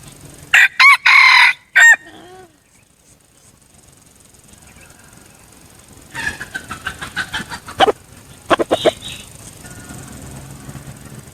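Red junglefowl rooster crowing once, loudly, in a short crow that trails off. About four seconds later comes a run of quick, short clucking calls.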